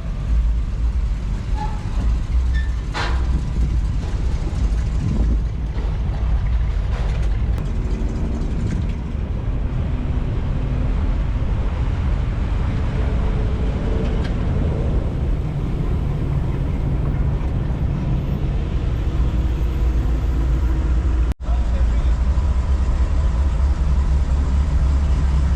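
Motor vehicles running with a steady, heavy low rumble, with faint voices underneath.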